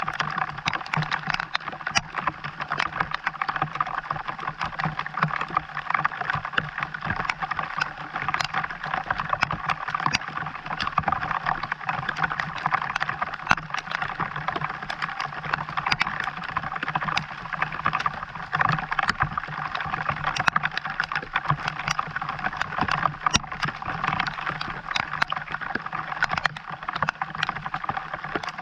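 Steady rain falling, a dense run of small drop ticks over a continuous hiss, with a low steady hum underneath.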